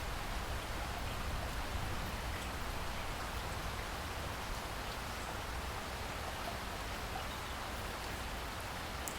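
Steady rain falling, an even hiss with faint individual drop ticks and a low rumble beneath.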